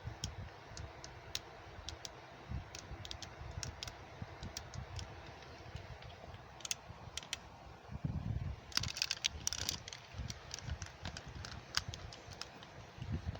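Scattered light clicks and taps of small hard objects, with a dense flurry of clicking about nine seconds in, over irregular low thumps.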